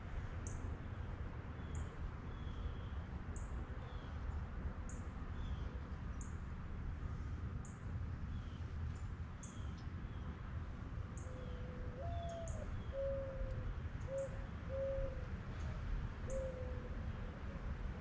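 Wild birds calling: short high chirps repeat about every second and a half, and from the middle onward a bird gives a series of low, soft cooing notes, the second one higher than the rest. A steady low rumble runs underneath.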